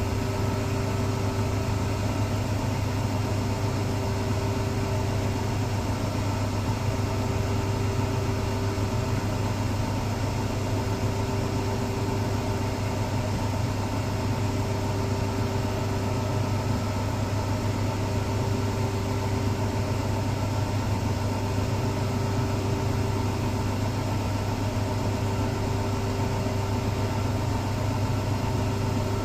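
Electrolux Professional WN6-20 commercial washing machine in its final high-speed spin (extraction), running at a constant speed with a steady motor hum.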